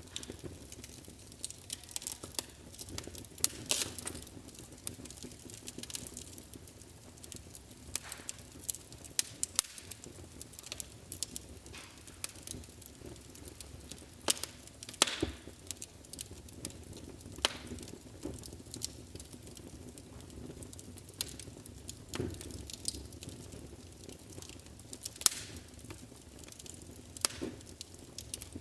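Wood fire burning in a fireplace: irregular sharp crackles and pops over a low steady hiss of the flames.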